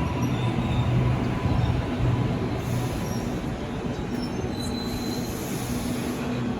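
Electric suburban or intercity train running through the station, with a steady low hum and rail noise that eases slightly. A brief high wheel squeal comes about two-thirds of the way through.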